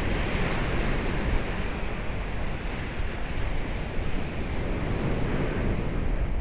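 Steady wash of sea surf breaking on the shore, with wind rumbling on the microphone.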